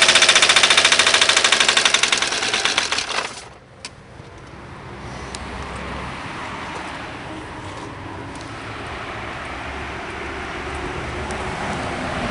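BMW 524td's 2.4-litre inline-six turbodiesel running on its own with a rapid even pulse: a runaway on engine oil drawn in through the failed turbocharger, which the pump's kill switch does not stop. The engine note weakens and cuts off suddenly about three and a half seconds in, leaving a low steady rumble with a few faint clicks.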